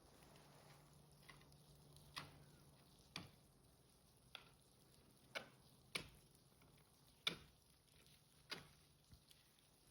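Faint sharp clicks or taps, about one a second at an uneven pace, over a faint steady low hum.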